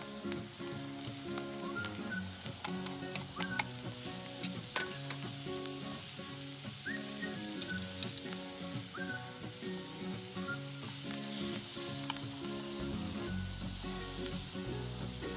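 Food sizzling as it fries in a pan over a campfire, with scattered sharp crackles and spits, under soft background music.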